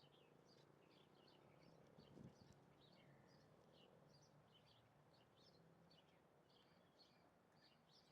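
Faint chirping of small birds: many short, high chirps in quick succession over low background noise, with a brief low thump about two seconds in.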